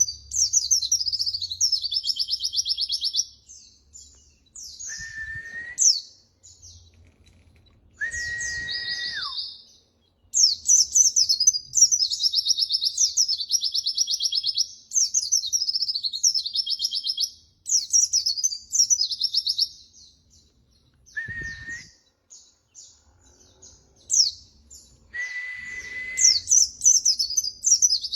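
White-eye (pleci) singing long, rapid, high twittering phrases, each lasting several seconds, with short pauses between. Four times a steady, lower whistle of about a second sounds in the gaps, the second one ending in a downward slide.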